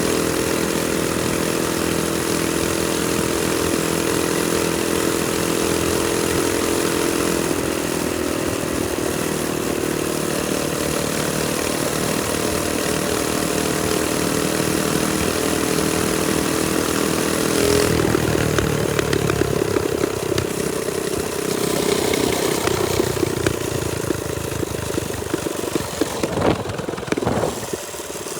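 TrailMaster Storm 200 minibike's small single-cylinder four-stroke engine running under way. Its pitch holds fairly steady, drops a little about a third of the way in and shifts again around two-thirds through, then turns rougher and uneven near the end.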